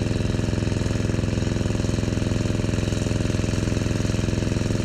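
A small engine running steadily, a low hum with a fast, even pulsing.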